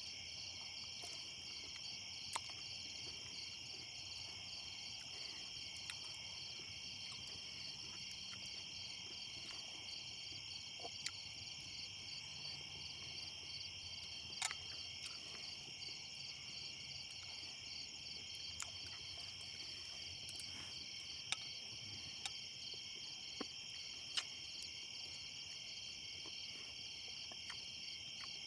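Crickets chirping in a steady, high-pitched continuous chorus, with a few sharp clicks now and then.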